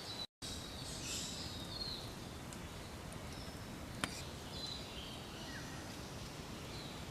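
Outdoor ambience with several short bird chirps and whistles throughout, over a steady background hiss. A single sharp click about four seconds in, and the sound cuts out completely for a moment just after the start.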